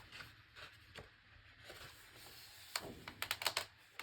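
Light handling of a large hardcover book's pages: scattered soft taps and paper ticks, with a quick run of sharper clicks about three seconds in.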